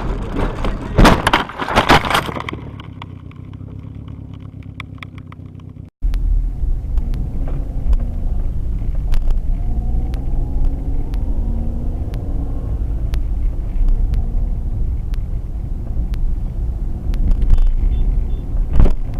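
Car dashcam audio: a few loud bangs in the first two seconds, then, after a cut, a steady low road-and-engine rumble heard from inside a moving car.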